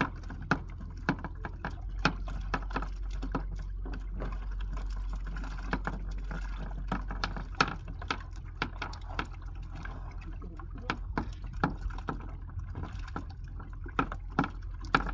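Water splashing and sloshing around a fishing platform, with many irregular sharp knocks and slaps as mackerel are landed and handled, over a steady low hum.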